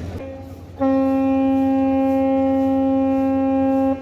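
A horn giving one long steady blast of about three seconds, beginning with a brief weaker sounding before it comes on at full strength and cutting off sharply.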